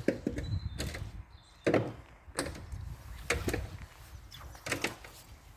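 A series of about six irregular short knocks and scuffs, a second or so apart, over a low rumble.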